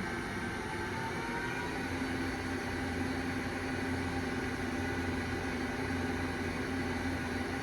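An oil country lathe's inverter-driven spindle drive running in its low gear range, a steady mechanical hum. In the first two seconds a faint tone rises in pitch, then a steady tone holds as the spindle speed is being turned up at very low RPM.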